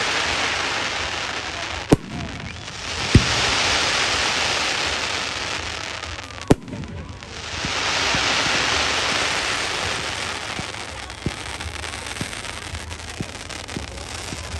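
Fireworks going off: three sharp bangs, with long swells of crackling hiss from the bursts between them, then scattered smaller pops toward the end.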